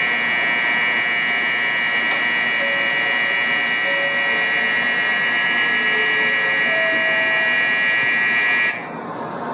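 Shinkansen platform's electronic signal bell ringing steadily and loudly, a bright, piercing electronic ring that cuts off abruptly near the end.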